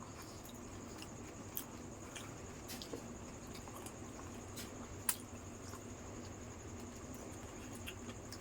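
Faint, soft wet sounds of eating yogurt-filled fuchka, with a few short clicks, the sharpest about five seconds in. A thin, steady high whine runs underneath.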